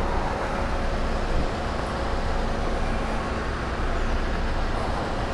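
KTM 690's single-cylinder engine running steadily at low speed, with road noise.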